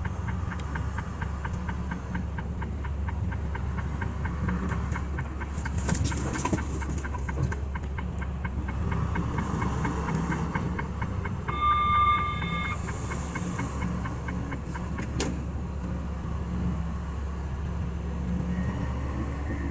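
Steady low road and engine noise inside a moving semi-truck's cab, with a short beep about twelve seconds in and a sharp click a few seconds later.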